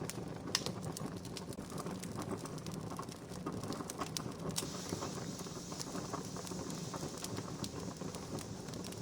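Wood fire crackling, with frequent irregular sharp pops over a steady hiss.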